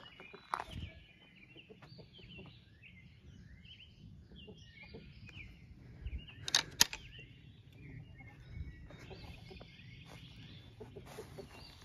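Birds chirping and calling, many short quick notes throughout, with two sharp clicks in quick succession about six and a half seconds in.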